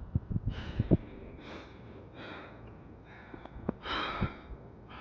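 A person breathing hard, with about four heavy, hissing breaths about a second apart, as from the exertion of a steep climb. A few low knocks in the first second.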